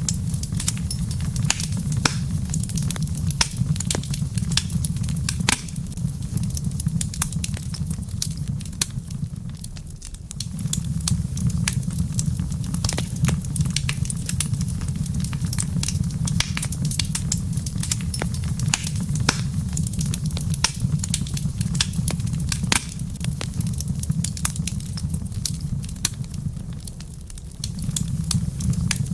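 Wood fire crackling, with frequent sharp pops and snaps over a steady low rumble that dips briefly twice.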